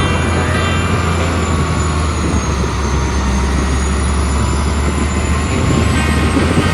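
Heavy dump truck running steadily with a low engine hum and a thin high whine that slowly rises and falls.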